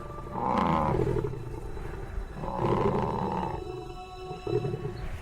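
Lion roaring: two long roars, each falling in pitch, then a shorter one near the end.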